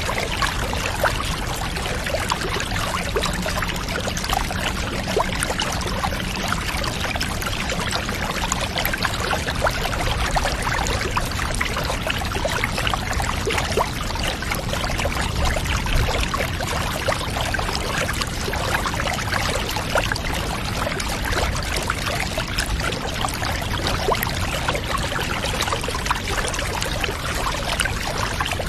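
Steady running water, with dense fine splashing and trickling and no change throughout.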